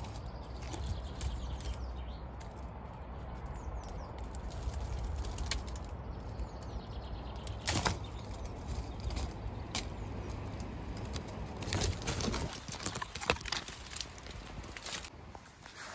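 Brush, twigs and leaves rustling and snapping as someone pushes through hedgerow undergrowth. There are scattered sharp cracks, loudest about eight and thirteen seconds in, over a low rumble.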